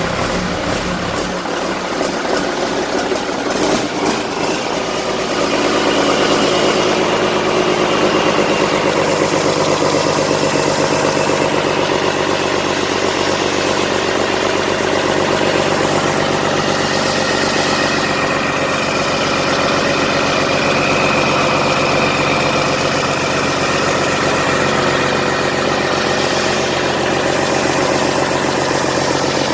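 Komatsu S6D125-2 inline six-cylinder diesel engine running, uneven for the first few seconds and then settling into a steady idle. A steady high whine rides over it from about halfway on.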